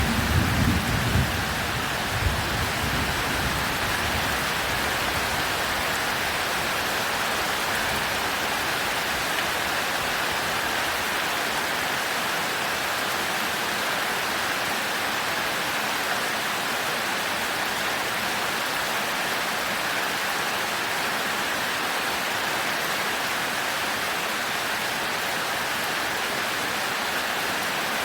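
Heavy rain falling steadily on a thatched roof, an even hiss. A low thunder rumble dies away in the first few seconds.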